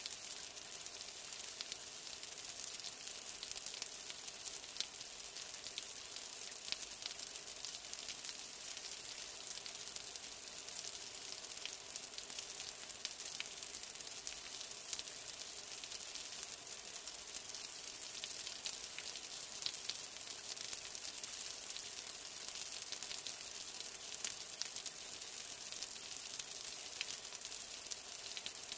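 Steady rain falling, a constant hiss with many individual drops ticking and pattering.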